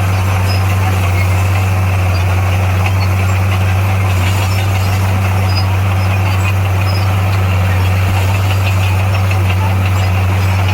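Heavy diesel engine of earthmoving equipment running steadily, a deep unchanging drone with mechanical noise over it.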